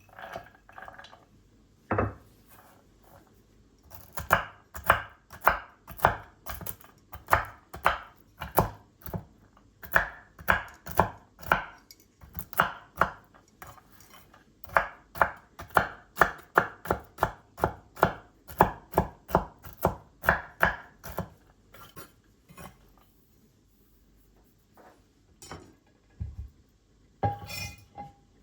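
Knife chopping food on a cutting board: steady strokes about two to three a second in several runs with short pauses, then a few scattered knocks near the end.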